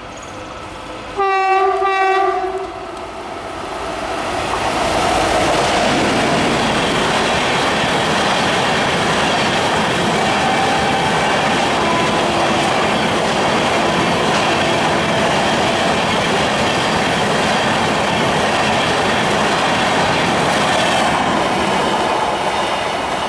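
Diesel locomotive horn sounding two short blasts back to back, then the train running past, a loud steady rush of wheels and cars on the track that builds over a couple of seconds and eases near the end.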